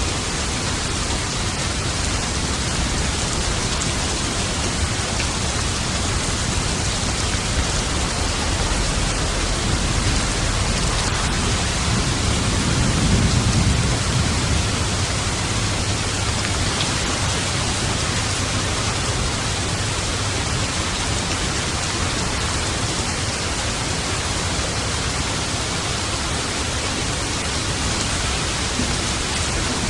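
Steady rain pouring down, with a low roll of thunder swelling and fading about halfway through.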